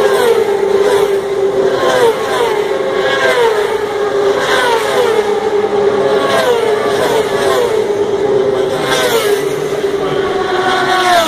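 Superbike racing motorcycles passing one after another at speed, each engine note falling in pitch as it goes by, about once a second. A steady engine drone runs underneath.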